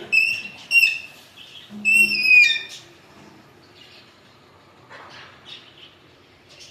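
Alexandrine parakeet calling: two short, clear whistled notes in the first second, then a longer note about two seconds in that ends in a falling glide. Quieter after about three seconds, with only faint scattered chirps.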